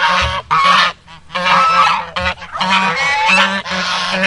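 Goose honking, a rapid series of loud calls in about half a dozen bursts.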